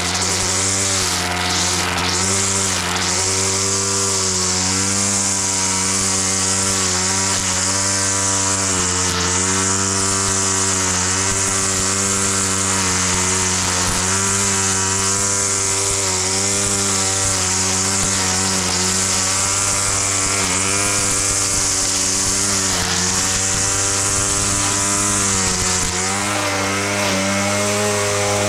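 Small petrol engine of a grass-cutting machine running at high speed, its pitch sagging briefly every second or two as it takes load, over a steady high hiss.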